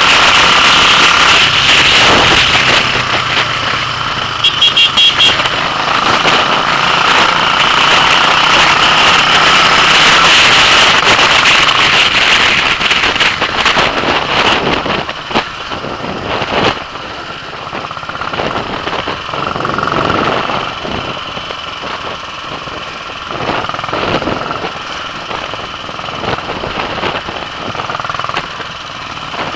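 Royal Enfield single-cylinder motorcycle engine running under way, with a steady rush of wind noise over it. A horn sounds in a quick series of short beeps about four to five seconds in, and the engine and wind are quieter in the second half.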